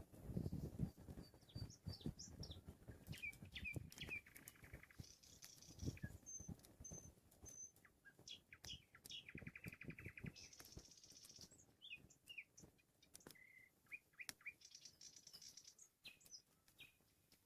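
Nightingale singing, faint: phrases of rapid trills, rattling runs and high whistled notes. There are low clicks and knocks in the first few seconds.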